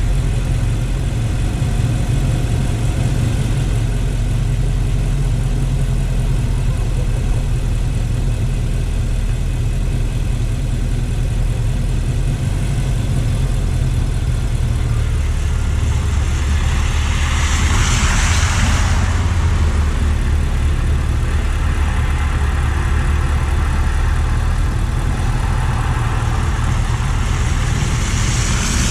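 Car driving on city streets: a steady low engine and road rumble, with a rushing hiss that swells and fades twice, once a little past the middle and once near the end.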